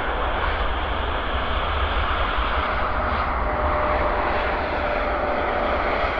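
Jet airliner's engines running, a steady rushing noise with a faint held whine for a few seconds in the middle, over the low rumble of wind buffeting the microphone.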